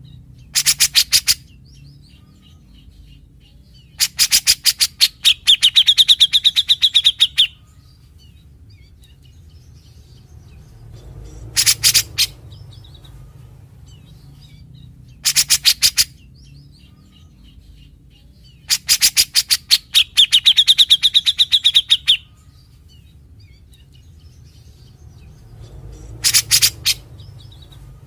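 Grey-cheeked bulbul (cucak jenggot) singing its harsh, scratchy 'besetan' phrases: short bursts of rapid rasping notes, and twice a longer phrase that runs into a high, fast rattling trill. The same sequence repeats about every 15 seconds.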